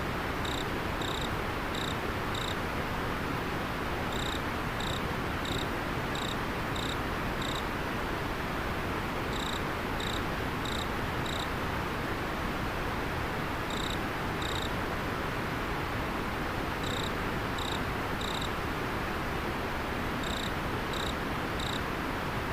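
River water flowing as a steady rush, with a cricket chirping over it: short, high chirps in runs of two to six, repeating every few seconds.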